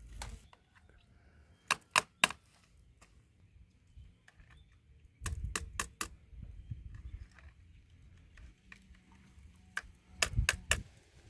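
Sharp knocks in quick groups of two to four strikes, a few seconds apart, over a faint low rumble.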